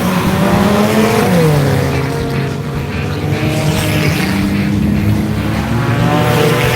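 Stock car engines running hard around a race track; one engine's pitch climbs and then drops sharply about a second and a half in as the driver lifts off, then holds steady at speed.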